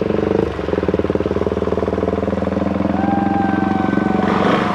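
Motorcycle engine running at a steady speed with even, rapid firing pulses. About three seconds in, a thin high steady tone joins it.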